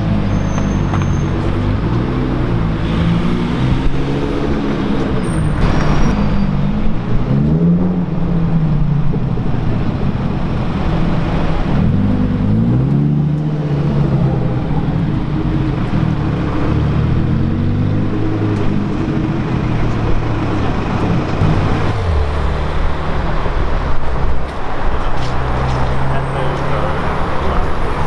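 Supercar engine revved again and again, its pitch rising and falling every couple of seconds, over street traffic. After about 22 seconds it settles into a steadier low running note.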